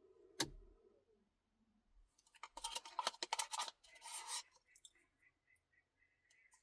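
Close-miked eating of a Dairy Queen Blizzard. A sharp tap comes about half a second in, then about two seconds of dense, crackly scraping and crunching.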